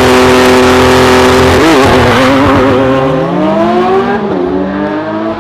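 Car engine running at a steady pitch, then revving up with the pitch climbing. It drops back briefly about four seconds in and climbs again.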